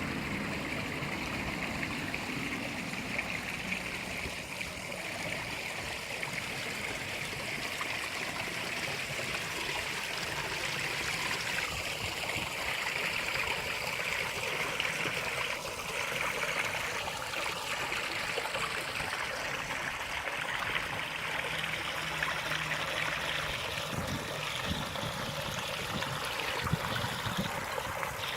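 Small garden pond waterfall: water running and trickling steadily down into the pond.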